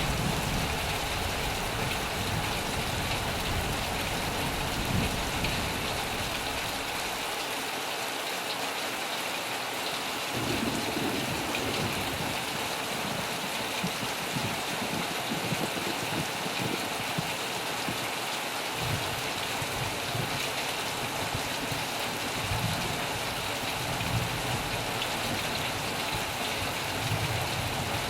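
Heavy rain drumming on a metal roof, a steady dense hiss, with a low rumble underneath that fades about a quarter of the way in and comes back in the last third.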